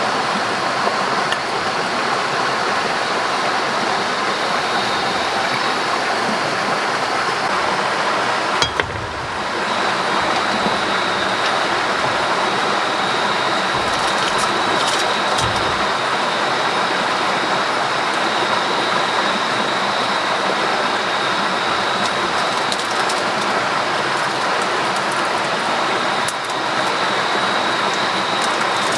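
Steady rush of water with a thin, steady high tone over it, broken briefly about nine seconds in.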